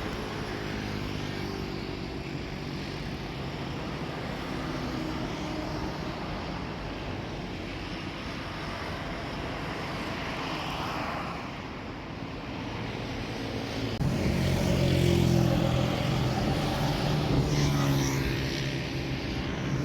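Steady engine drone with a low hum, getting louder about fourteen seconds in.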